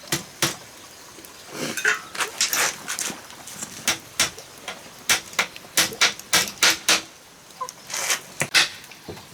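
Irregular clatter of sharp clicks and knocks, bunched several to a second in places, with a few short scraping sounds.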